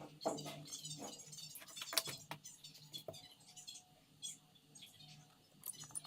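Light clicks, taps and small clinks from handling the phone's small parts and tools, irregular, with one sharper click about two seconds in.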